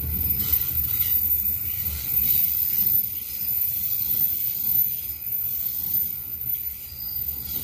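E235 series electric commuter train rolling past on the platform track: a steady hiss of wheels on the rails, with a low rumble during the first two seconds.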